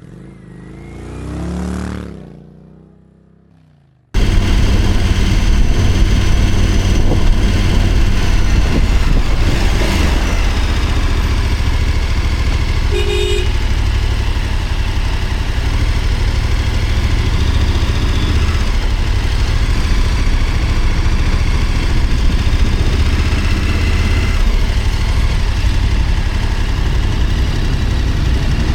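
A short swelling whoosh with falling pitch that fades out, then, cutting in suddenly about four seconds in, a motorcycle engine running under way with heavy wind noise, loud and steady.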